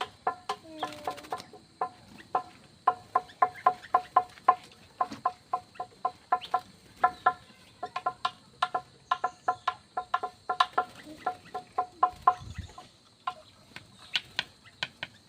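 Aviary birds giving a long run of short clucking calls, about three or four a second, pausing now and then.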